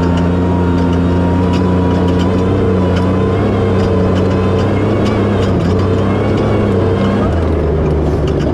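Prerunner Toyota Tacoma's engine pulling hard at a steady, high pitch on a high-speed pass across sand, with scattered knocks and rattles over it. The pitch dips slightly about seven seconds in.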